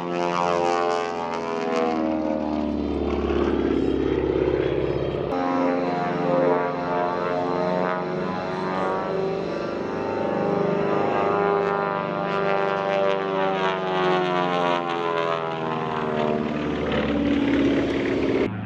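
Propeller-driven aerobatic airplane's engine droning as it manoeuvres, its pitch sliding slowly up and down. The sound changes abruptly about five seconds in.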